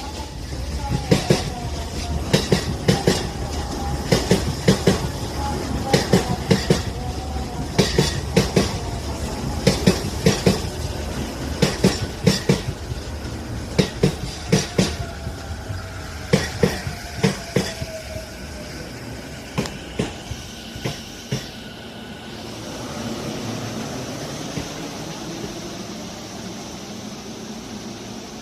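Electric commuter train's wheels clacking over rail joints in groups about every two seconds, with a faint falling motor whine. Near the end the clacks space out and stop, leaving a steady hum.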